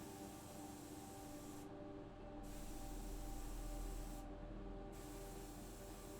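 Compressed-air spraying in bursts, a hiss that starts and stops twice with short gaps, over a steady hum.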